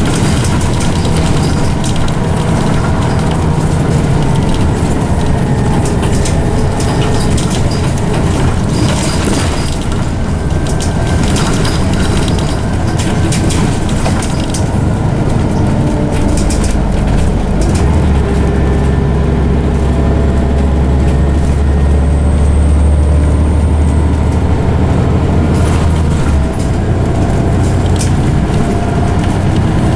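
Scania OmniCity bus on the move, its engine running under a loud ZF automatic gearbox whine that slides up and down in pitch, with rattles and knocks from the body. A deep engine note swells about two-thirds of the way through, then drops away sharply shortly before the end.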